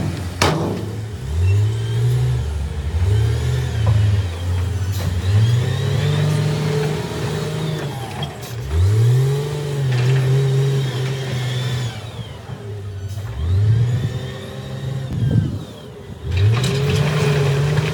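Diesel engine of heavy earthmoving machinery revving up again and again, its pitch rising with each push, about six times.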